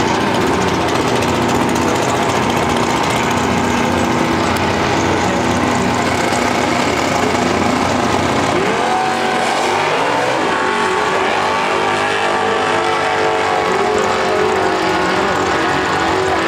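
Drag race cars' engines running loudly, with the pitch climbing in sweeps about nine seconds in and again near the end as they rev and accelerate.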